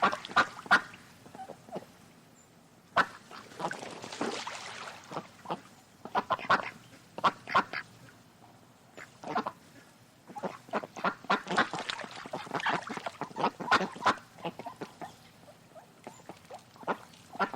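Birds calling: short calls repeated in quick runs, with brief pauses between the runs.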